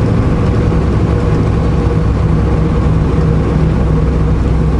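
Semi truck's diesel engine running steadily at cruise, with tyre and road noise, heard from inside the cab. A constant low drone with no change in pitch.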